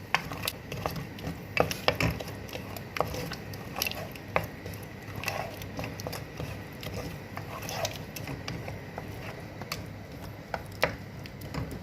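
A spoon stirring a thick spiced yogurt and tomato-paste sauce in a cooking pot, with irregular clicks and knocks of the spoon scraping and striking the pot.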